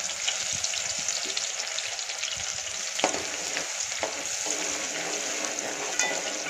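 Chopped onion, garlic and bay leaf sizzling in hot oil as a steel ladle stirs them in a metal pot. Sharp knocks of the ladle on the pot come about three seconds in and again near the end.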